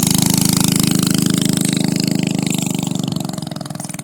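Homemade minibike's small 5.5-horsepower engine pulling away under throttle, a steady drone that fades over the last second as the bike rides off.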